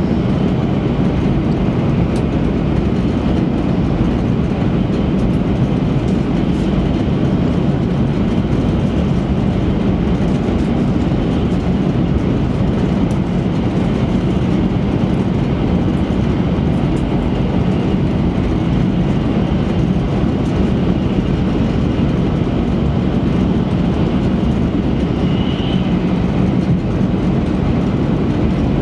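E3 series Shinkansen running at high speed, heard inside the passenger cabin: a steady, low rumble of wheels on rail.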